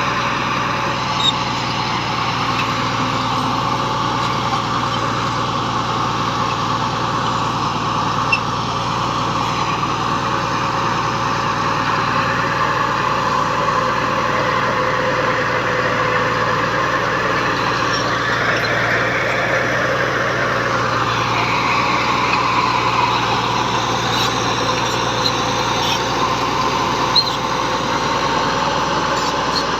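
Bulldozer's diesel engine running steadily, with a few brief sharp clicks.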